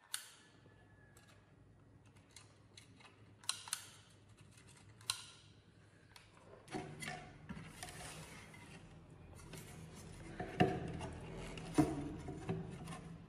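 Sharp clicks and taps of small hard objects being handled. From about seven seconds a steady hum comes in under them, with two louder knocks near the end.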